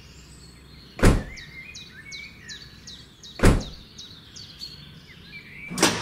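Birds chirping, a quick series of short falling calls. Over them come sharp knocks: one about a second in, one midway, and a third just before the end.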